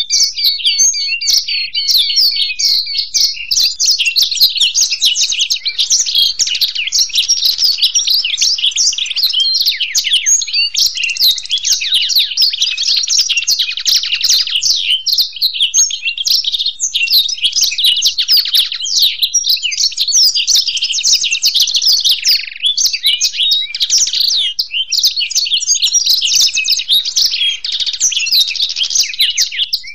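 Black-throated canary (blackthroat) and European goldfinch songs together: one continuous, unbroken stream of rapid high twittering, chirps and trills.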